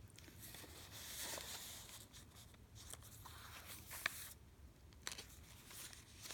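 Faint rustling of paper and fabric as a long card is handled in a small cloth sack from a handmade journal, with a few light taps about four and five seconds in.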